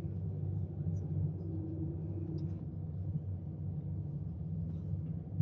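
Steady low rumble inside a moving aerial tramway cabin as it runs along its cables.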